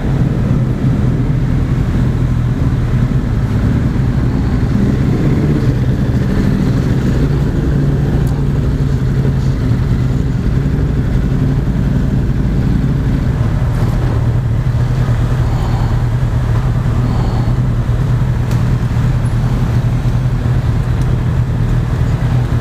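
Motorcycle engine running at a steady, moderate speed under way, a constant low drone with road and wind noise around it.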